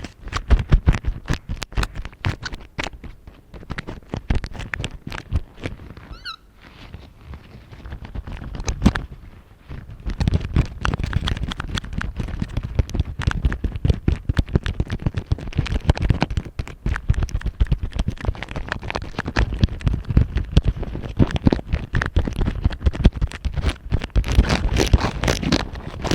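Rubber-gloved fingers tapping and scratching on a microphone in quick, dense strokes. A brief squeak comes about six seconds in. The strokes are sparser and quieter for the first several seconds, then busier and steady from about ten seconds in.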